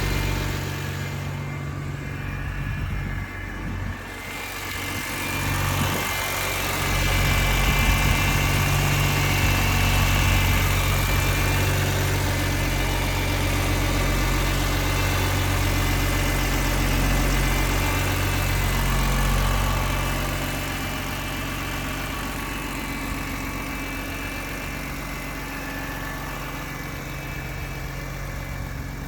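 BMW S54 3.2-litre inline-six in an E30 idling as it warms up after a cold start. The engine note swells a few seconds in and settles lower about two-thirds of the way through.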